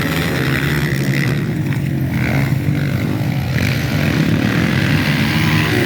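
Dirt bike engines running on a motocross track, a steady loud drone with rises and falls in pitch as the riders work the throttle.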